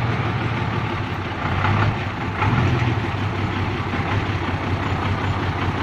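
Modified truck's Hino six-cylinder diesel engine running steadily at low revs.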